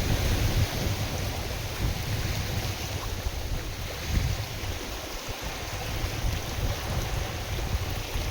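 Wind-driven lake waves washing steadily, with gusts of wind buffeting the microphone in an uneven low rumble.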